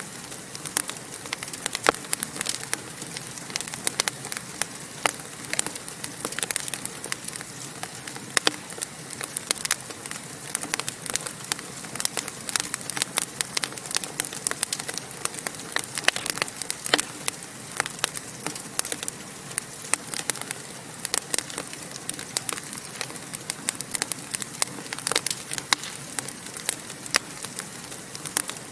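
Wood fire crackling in a fireplace: many small, irregular pops and snaps over a steady hiss of flames.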